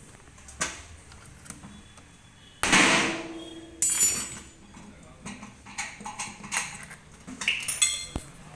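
Metal knocks and clanks from work on a front-load washing machine's drum spider and shaft, with two loud strikes about three and four seconds in, the second one ringing, and smaller clinks near the end.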